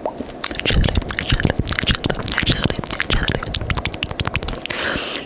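Close-miked wet mouth sounds: a fast, dense run of tongue clicks and squishy smacks starting about half a second in, with a short breathy hiss near the end.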